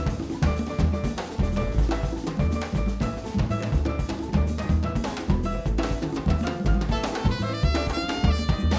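Live jazz band playing an up-tempo Latin groove: drum kit with bass drum, snare and rimshots driving under bass and pitched instruments, with a fast run of high notes near the end.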